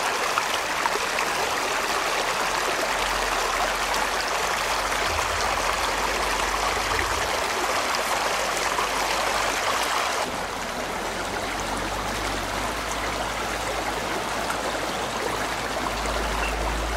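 Stream water running steadily, a continuous rushing and trickling; the sound gets a little quieter and duller about ten seconds in.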